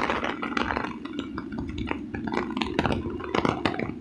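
Raindrops tapping irregularly on an umbrella, a scatter of sharp little ticks over a steady low hiss.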